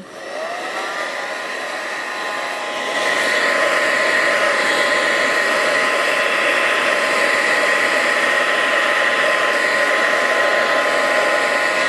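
Handheld hair dryer switched on, its motor whine rising as it spins up, then blowing steadily with a rush of air and a high whine. It gets louder about three seconds in and stops near the end.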